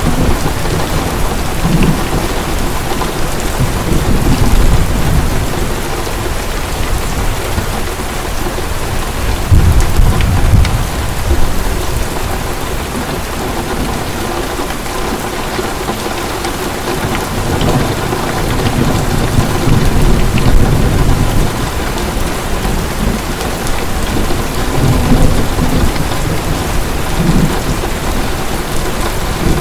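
Heavy rain pouring steadily, with thunder rumbling low several times, swelling about 4 and 10 seconds in and again in the second half.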